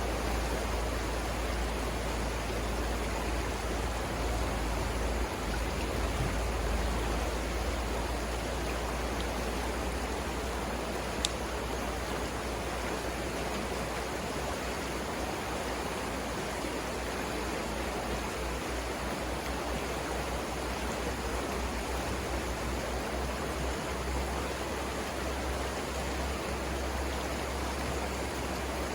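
Savannah River water flowing steadily over rapids: an even, unbroken rush with a deep low rumble underneath. There is one brief tick about eleven seconds in.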